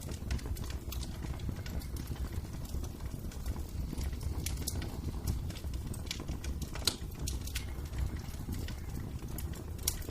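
Wood fire crackling in a fireplace: irregular sharp pops and snaps over a low steady rumble, with louder pops about seven seconds in and near the end.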